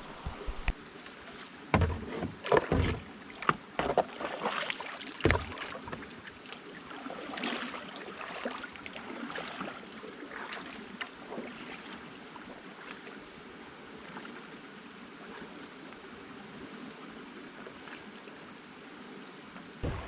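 Kayak and paddle knocking and thumping against each other several times over the first five seconds or so, then softer splashing and sloshing of paddling. A thin, steady high whine runs underneath almost throughout.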